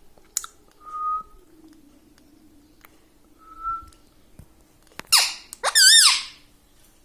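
Pet Indian ringneck parrot calling: a quick chirp, two short soft whistled notes, then near the end a loud harsh screech followed by a loud warbling call.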